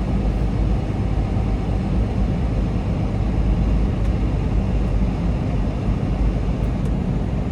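Semi truck running, a steady low rumble with no breaks or changes.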